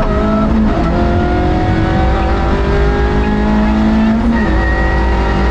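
Rally car engine heard from inside the cabin, pulling hard with its pitch slowly rising as the car accelerates. The engine tone breaks briefly about half a second in and again about four and a half seconds in, over a steady low rumble of tyres and road.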